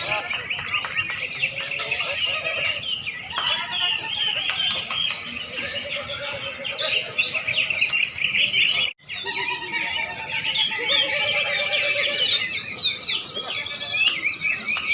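Many caged songbirds singing at once in a contest, a dense overlapping chorus of chirps and trills. The sound cuts out for an instant about nine seconds in.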